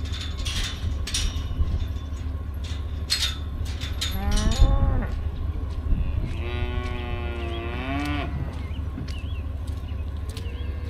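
Cattle mooing: a short moo about four seconds in, then a longer one lasting about two seconds. Several sharp clicks sound in the first few seconds, over a steady low rumble.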